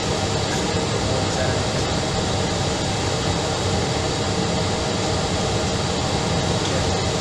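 Steady airliner noise: an even, unchanging rush of air and engine sound, with no rises or breaks.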